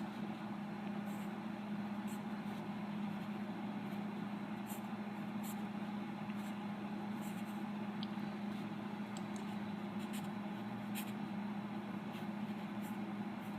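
A steady low hum with faint, irregular scratches of a pen drawing on paper.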